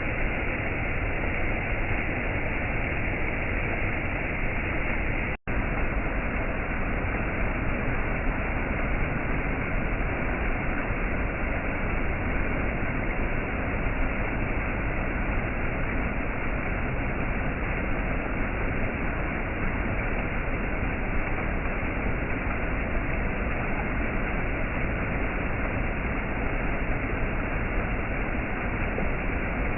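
Waterfall: a steady, unbroken rush of falling water, cutting out for an instant about five seconds in.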